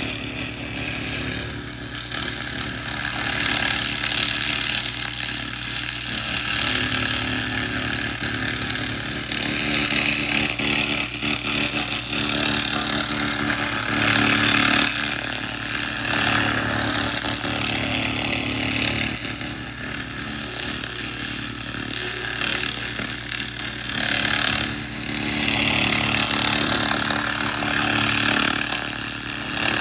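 A 2000-watt laser rust remover burning rust off metal: a harsh, crackling buzz that swells and eases every few seconds as the beam works across the surface, over a steady machine hum.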